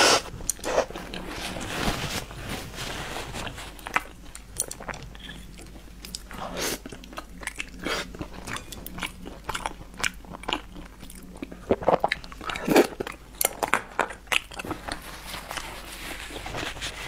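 A person biting and chewing a breaded, fried piece of food dipped in dark sauce, close to the microphone: irregular sharp crackly bites and wet chewing, with the loudest bites near the start and about two-thirds of the way in.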